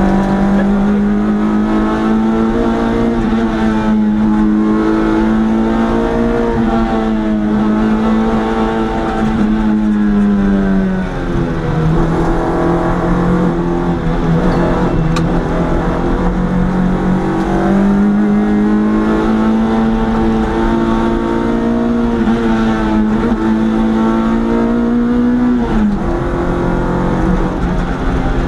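A historic competition car's engine heard from inside the cabin, running hard at high revs up a hillclimb road. The engine note holds fairly steady, drops in pitch about eleven seconds in, climbs back a few seconds later, and dips sharply near the end.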